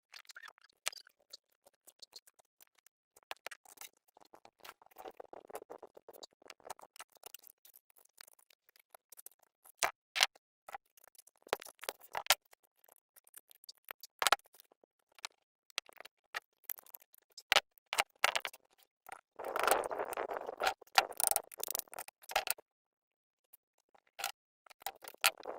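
Scattered sharp clicks and taps of hand tools and small engine parts being handled on a workbench during generator repair. There are two stretches of scraping or rubbing, a few seconds in and again around twenty seconds in.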